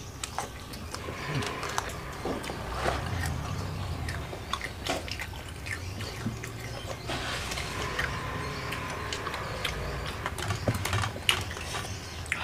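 Close-up eating sounds: chewing crispy battered fried mushrooms and rice, with many small crunches and wet mouth clicks scattered through.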